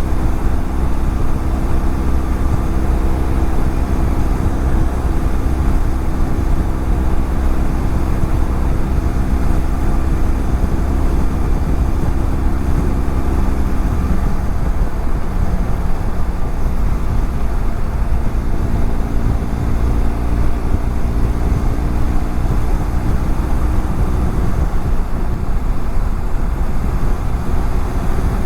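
BMW F700GS parallel-twin engine running at a steady cruise, with wind and road rumble. The engine note shifts slightly about halfway through.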